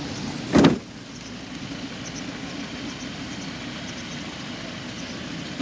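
Off-road vehicle engine running steadily with a low rumble, with one short loud thump about half a second in.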